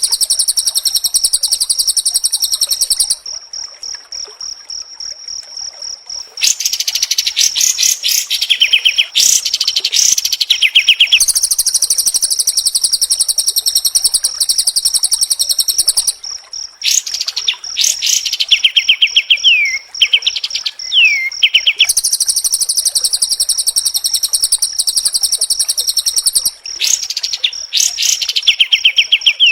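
White-rumped shama (murai batu) song recording, a fast, tightly packed stream of high trills. It alternates with runs of quick downward-sweeping whistled notes and goes quieter and simpler for a few seconds near the start. This is masteran song, played to captive shamas to teach them or to provoke them into singing.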